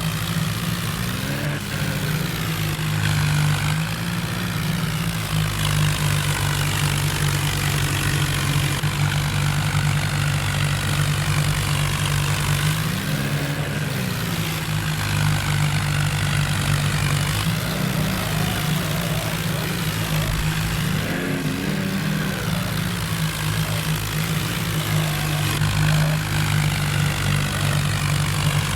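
John Deere tractor's diesel engine running steadily, with a low, even hum and a few brief swells in pitch.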